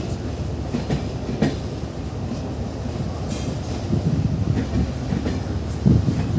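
Passenger train running on the rails: a steady low rumble with a few sharp knocks from the wheels, clickety-clack over the track.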